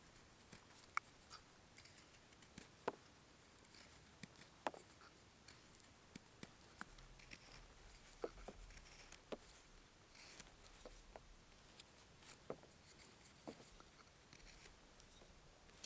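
Faint, irregular small clicks and ticks, one every second or so, over a quiet hiss.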